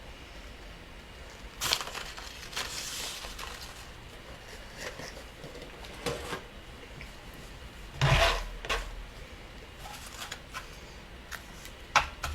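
Scattered clicks, taps and rustles of a cigarette injector machine and its paper tubes being handled, with a louder knock about eight seconds in.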